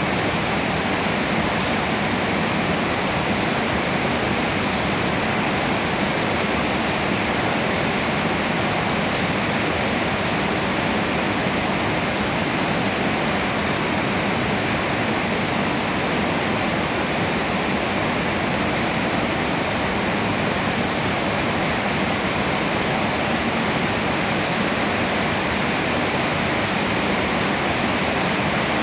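Steady rain falling on leafy trees: an even hiss that holds unchanged throughout.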